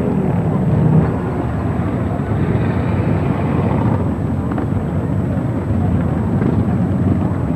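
Engines of a group of motorcycles running as the bikes ride past, a steady rumble.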